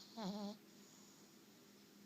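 A sleeping dog snoring: one short, faint, whine-like snore with a breathy hiss in the first half second, then much quieter.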